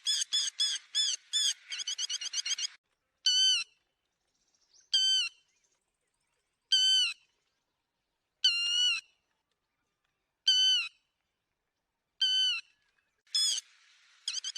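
Lapwing calls from a lure recording for bird netting: a fast run of sharp repeated calls for the first few seconds, then single calls spaced nearly two seconds apart, and a fast run again near the end.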